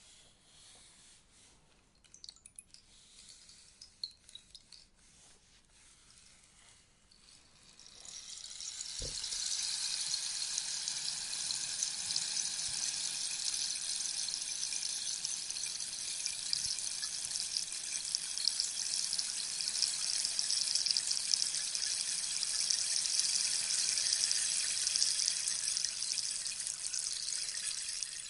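Rainstick: first a few scattered clicks as the last beads settle, then, after a low thump about nine seconds in, the beads pour through in a long, steady, rain-like hiss that fades out at the very end.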